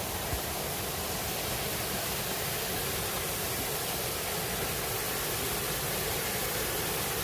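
Smith Falls waterfall, a steady, even rush of falling water with no breaks.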